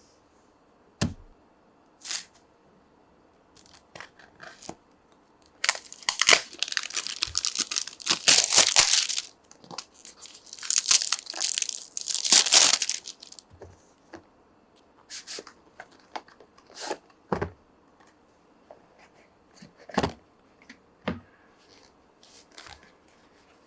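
Product packaging being torn open by hand: two long rips a few seconds apart near the middle, with scattered taps and clicks of handling before and after.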